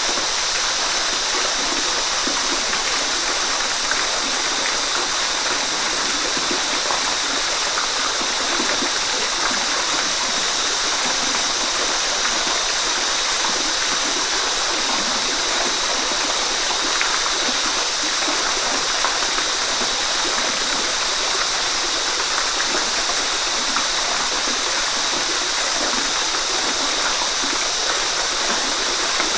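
Waterfall: water falling and splashing in a steady, constant rush, a bright hiss with little deep rumble.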